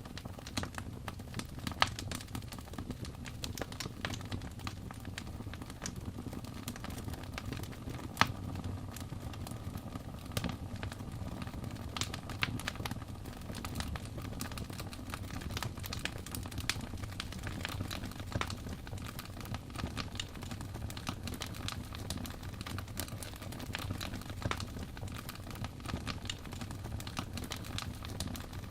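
Wood fire crackling in a fireplace: a steady low rumble of burning with frequent small crackles and a few louder pops, the sharpest about two seconds in and about eight seconds in.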